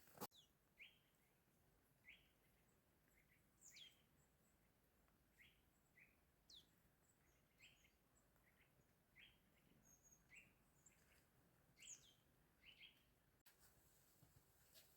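Small songbirds calling faintly: short, high chirps about once a second, with a few higher notes sweeping steeply downward.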